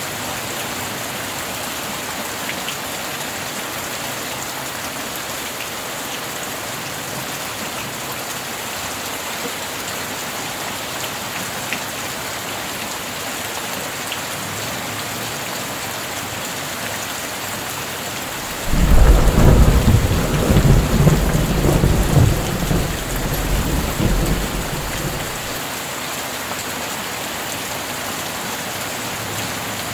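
Steady rain falling, with a clap of thunder that breaks in suddenly about two-thirds of the way through, rumbles low for several seconds and fades back into the rain.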